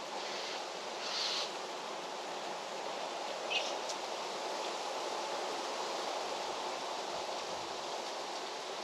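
Outdoor farm ambience: a steady rushing noise, with a short burst of high hiss about a second in and a brief high chirp about three and a half seconds in.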